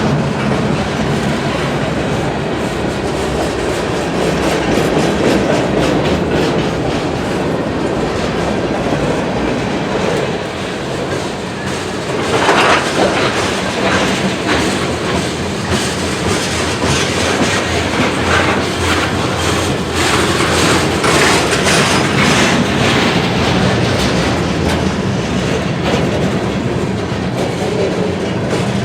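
Freight train cars rolling past, wheels clicking over the rail joints with a steady low rumble underneath. The clicking gets denser about twelve seconds in and again around twenty seconds.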